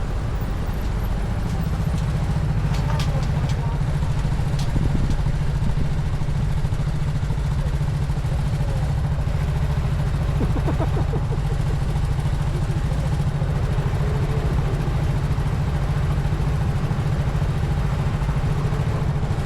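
Honda CT125 motorbike's single-cylinder four-stroke engine running steadily while riding along, with road and wind noise, and a couple of brief clicks a few seconds in.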